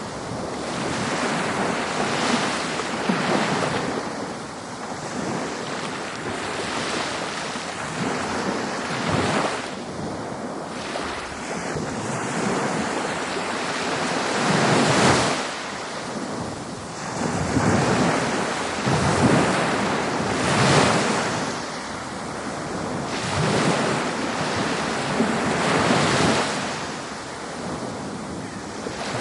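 Ocean surf on a beach: waves breaking and washing up, the hiss rising and falling in surges every few seconds.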